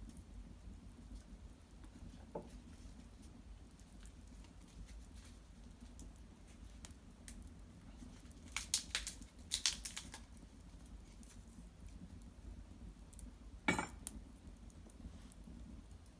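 Small wood fire of cedar branches crackling quietly with scattered ticks, a short run of louder crackles about halfway through, and one sharp pop near the end.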